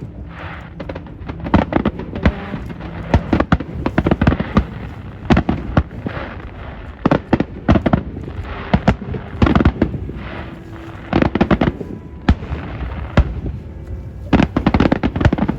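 Aerial fireworks display: a rapid, irregular run of loud bangs and crackling bursts, several a second, with no let-up.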